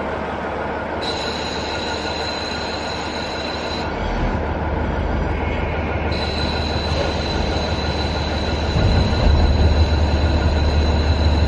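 KiHa 48 diesel railcar under way, heard from inside with a window open: the diesel engine and wheels on rail over a steady rush of wind. A thin high squeal from the wheels comes and goes. The low engine rumble grows louder about four seconds in and again near nine seconds.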